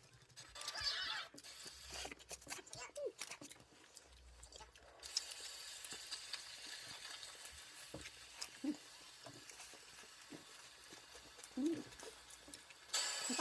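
Close-up chewing and mouth sounds of someone eating a burger, with scattered soft clicks and rustles.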